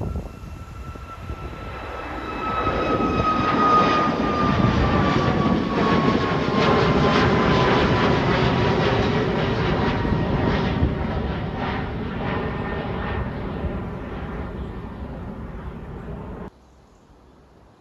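Jet airliner taking off and passing by: the engine rumble builds to a loud peak, with a high whine that falls steadily in pitch as the aircraft goes past, then eases off. The sound cuts off abruptly near the end.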